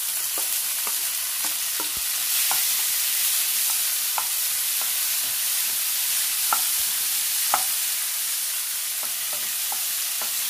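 Chopped tomatoes sizzling in hot coconut oil in a nonstick frying pan: a steady hiss. A spatula stirs them, with irregular taps and scrapes against the pan, two sharper knocks about two-thirds of the way in.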